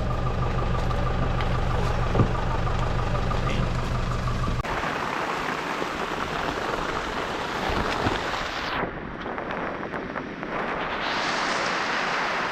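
A boat motor running steadily, then about four and a half seconds in it gives way abruptly to a rushing wash of water and wind noise.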